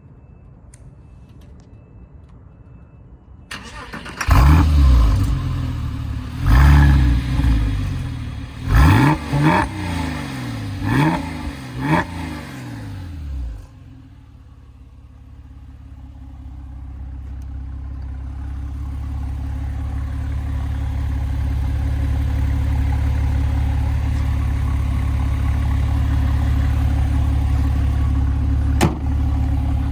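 Porsche 996 Carrera 4S flat-six exhaust: the engine fires up about four seconds in and is blipped five or six times, the pitch falling back after each blip. It then settles into a steady low drone that grows louder over several seconds and holds, with a single click near the end.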